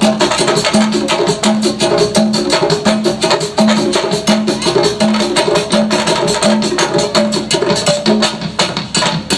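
Percussion ensemble playing a fast, dense rhythm of hand-struck drums and wood-block-like clicks, with a low pitched note repeating evenly about three times every two seconds.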